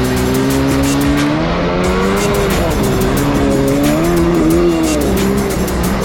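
Jet ski engine running under way, its pitch rising and falling as the throttle and load change, with frequent short knocks through it.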